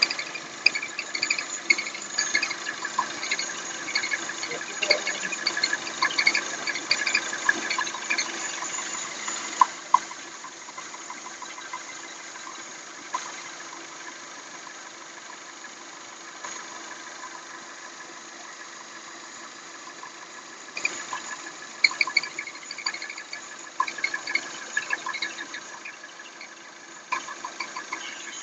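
Peugeot/Citroën/Mini 1.6 THP turbo petrol engine idling with a fast, cricket-like chirping. This is the sign of a faulty blow-by (crankcase ventilation) valve in the valve cover. The chirping dies away for a long stretch in the middle, as it does when the oil dipstick is pulled, then comes back in bursts near the end.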